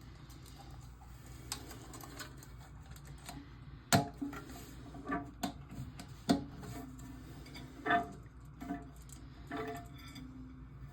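Scattered clicks and knocks of plastic and metal parts being handled in a toilet tank as a new flapper and its chain are fitted. The sharpest knocks come about four and six seconds in.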